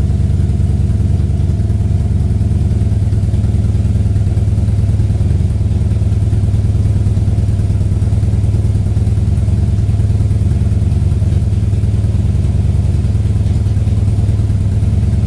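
A 2011 Harley-Davidson Dyna Super Glide Custom's Twin Cam 96 V-twin idling steadily through SuperTrapp Disc Series slip-on mufflers.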